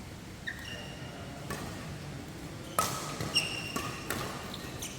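Badminton doubles rally: sharp racket hits on the shuttlecock about every second and a half, the loudest a little under three seconds in, with short, high squeaks of shoes on the court floor in between.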